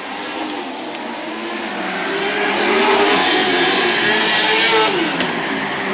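Lightning sprint car engines running on the track, growing louder as cars come past and falling in pitch as they go by about five seconds in.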